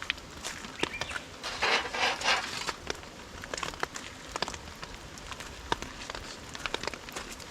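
Irregular patter of small sharp clicks and crackles, with a brief rustling, crinkling burst about two seconds in.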